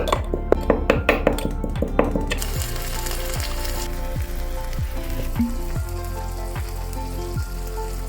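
Quick light clinks of small cooking utensils for about two seconds, then a steady sizzle as the tiny fish cooks over the small fire.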